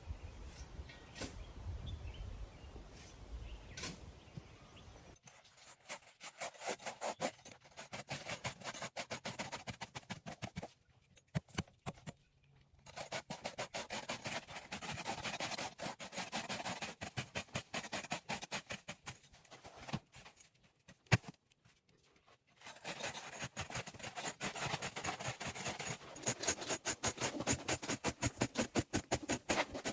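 Runs of rapid scraping, rasping strokes from hand-tool work, broken by short pauses, with a single sharp knock about two-thirds of the way through.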